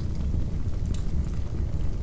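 Wood fire burning in a fireplace: a steady low rumble of flames with a few sharp crackles and pops from the burning logs.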